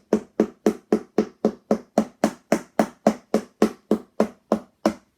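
Wooden spoon drumming rapidly on the closed side of an upturned empty cardboard box, a steady run of strikes about four a second that stops near the end, played as a home-made thunder sound effect.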